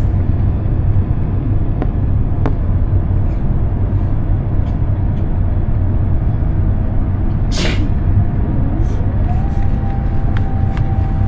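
Airbus A350-900 airliner cabin noise: a loud, steady low rumble. About three-quarters of the way through, a mechanical whine rises in pitch and then holds steady, and there is a brief hiss a little past the middle.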